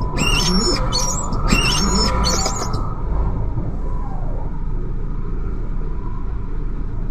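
Birds chirping in quick repeated calls over a steady low rumble; the chirping stops about three seconds in and the rumble carries on alone.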